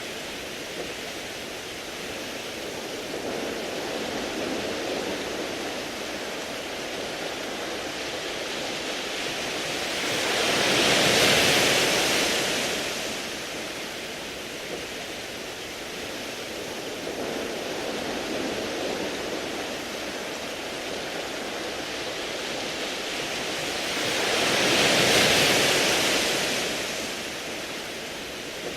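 Sea waves washing onto a beach of smooth round pebbles: a steady wash with two larger waves swelling and falling away, one about a third of the way in and one near the end.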